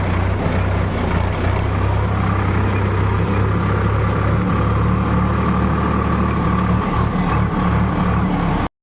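Tractor's diesel engine running steadily at a constant speed, heard up close; it cuts off suddenly near the end.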